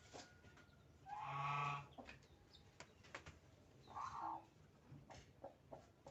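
Farm animal calls: a loud, drawn-out call about a second in and a shorter one near four seconds, with scattered light clicks and taps between them.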